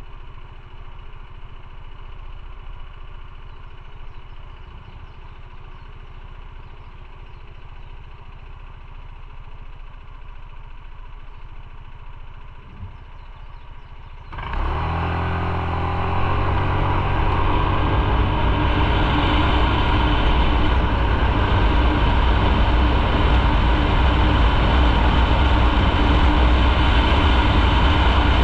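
Motorcycle engine idling with a low steady rumble, then about halfway through it pulls away and the sound jumps to a much louder running engine with rushing noise as the bike rides on.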